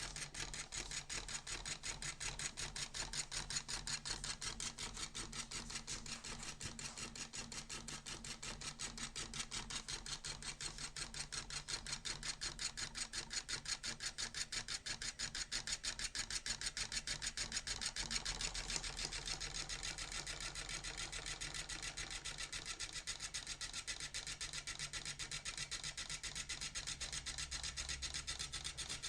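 Enlarged model brushed electric motor running at full speed, giving a fast, even rasping tick as its rotor turns.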